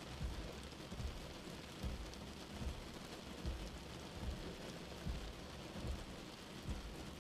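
Steady rain falling, an even hiss with irregular low thumps under it.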